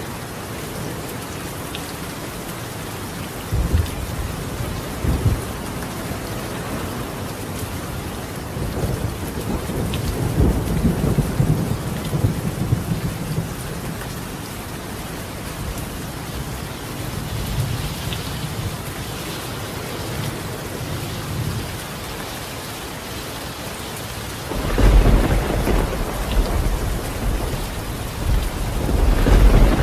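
Steady rain falling on a colonial clay-tile roof, with thunder rumbling several times; the loudest roll of thunder starts near the end.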